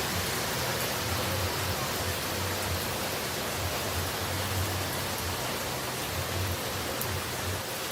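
Falling water rushing steadily, an even noise with a low rumble underneath.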